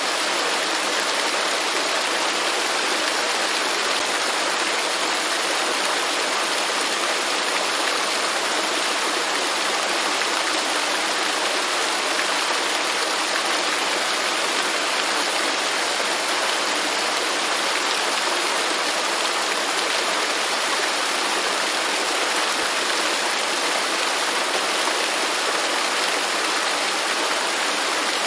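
Waterfall rushing in an even, unbroken splash, with no distinct drops or surges.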